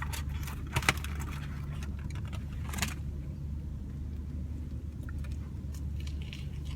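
Chewing on a mouthful of burger, with a few short crinkles and clicks near one second and near three seconds, over a steady low hum.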